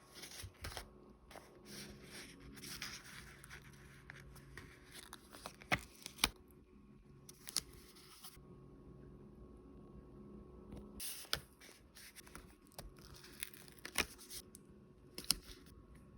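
Hands handling paper and packaging at close range: tearing, scraping and crinkling, broken by a dozen or so sharp clicks and taps.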